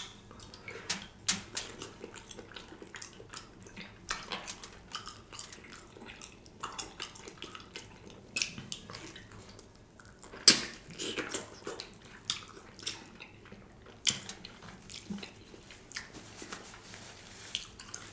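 Close-up eating sounds of a man chewing smoked turkey leg: a steady run of small wet mouth clicks and lip smacks, with one sharper, louder snap about ten and a half seconds in.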